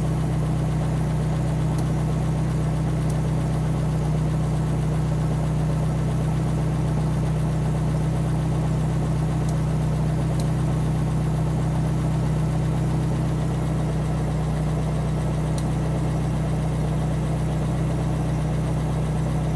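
1996 Suzuki X-90's 1.6-litre four-cylinder engine idling steadily.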